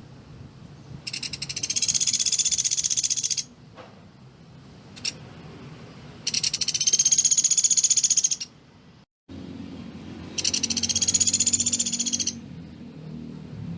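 Pelatuk beras woodpecker calling: three loud, rapid, high-pitched rattling trills of about two seconds each, the 'close-fire' call prized for song training, with a single short burst between the first two.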